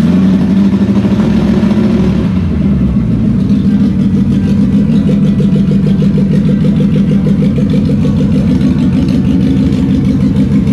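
The BMW 2002 tii's four-cylinder engine, with its freshly rebuilt Kugelfischer mechanical fuel-injection pump, running steadily on a test stand with an even firing pulse.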